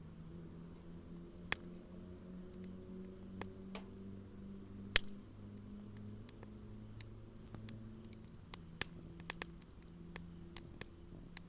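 Burning firewood crackling in a fire pit, with sharp irregular pops, the loudest about five seconds in. A low hum runs underneath.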